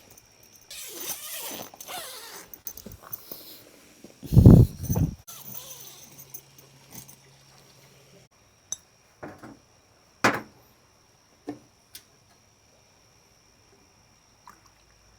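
Handling noises: rustling for the first few seconds, then a heavy dull thump about four and a half seconds in. After that, a handful of separate sharp clicks and knocks, spaced out, with a faint steady high tone behind them.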